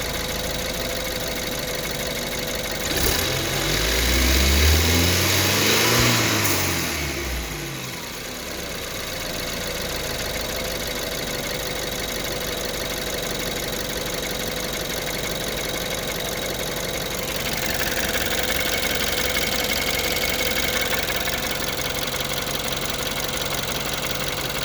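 BMW N20 2.0-litre turbocharged four-cylinder idling, blipped once about three seconds in so the pitch climbs and falls back to idle, with a louder hiss joining in past the middle. It is recorded as a suspected timing chain rattle, a known N20 chain-guide problem.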